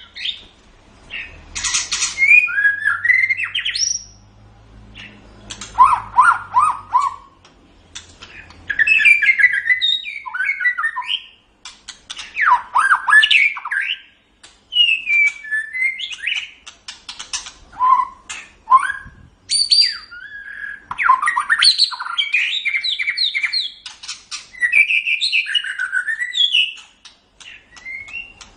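White-rumped shama (murai batu) singing a long, varied song: quick whistled phrases, fast runs of notes and harsher chattering notes, one phrase after another with short pauses between.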